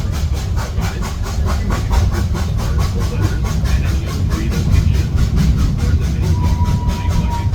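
A 30-inch narrow-gauge train running, heard from aboard: a steady low rumble with a fast, even rhythmic beat of about seven a second. A thin steady whine joins near the end.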